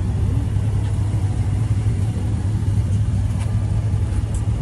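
A car engine idling with a steady, deep low rumble.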